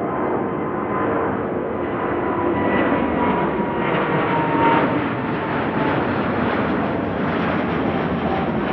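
Jet airliner engines close by, a loud steady rush with faint whining tones that drift in pitch.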